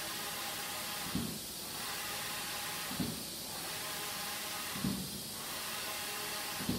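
Large-format inkjet printer printing: its printhead carriage sweeps back and forth with a short low thump about every two seconds, four in all, over a steady hiss.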